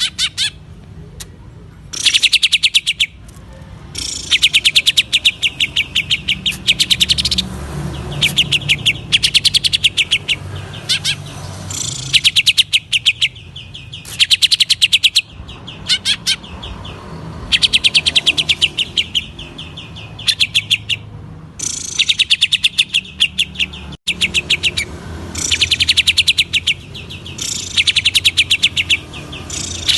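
Green leafbird (cucak ijo) singing in rapid, stuttering runs of repeated notes, the 'ngentrok' style. Phrases last about one to two seconds with short breaks between them.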